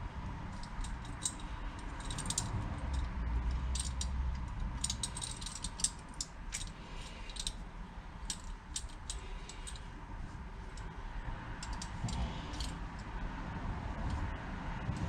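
Irregular light metallic clicks and clinks of small metal tools and engine parts being handled.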